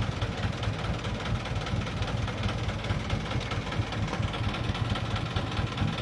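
Diesel engine of a Mitsubishi Canter dump truck running steadily at low revs.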